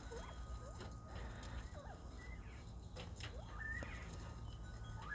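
Bobwhite quail making soft, short chirping calls, several in turn, some sliding up and down in pitch, with a few faint clicks among them.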